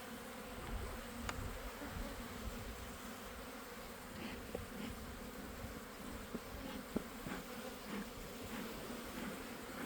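Honeybees buzzing in a steady hum around an opened hive, the colony stirred up and defensive. A few light clicks are heard over it.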